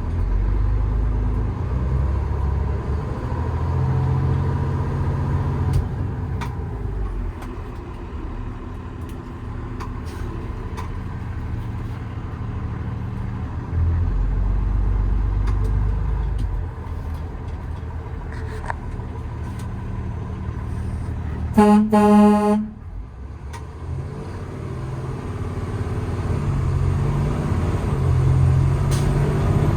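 Paccar PX9 8.9-litre diesel of a Peterbilt 337 running under way, with steady low rumble and road noise. About two-thirds of the way through, a horn sounds once for about a second, the loudest thing heard.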